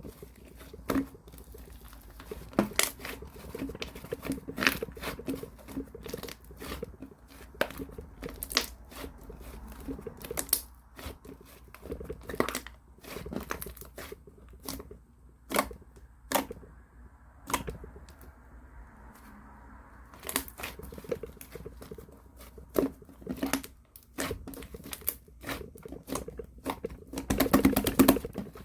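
Blue two-layer slime being played with by hand: squeezed, pressed and stretched, giving irregular sharp pops and crackles with softer squishing between them, with a denser, louder run of pops near the end.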